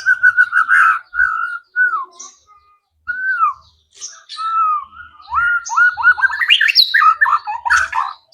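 White-rumped shama (murai batu) singing a varied song of clear whistles: a held whistle and falling slurred notes, a short pause, then a fast run of rising notes near the end.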